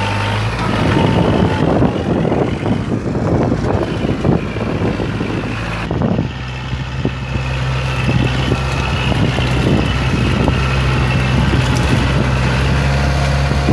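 Kubota MU4501 45 hp diesel tractor engine running steadily under load while puddling a wet field. Irregular clatter and crackle over the engine for roughly the first half, dropping briefly about six seconds in, then the engine carries on steadily with lighter clicks.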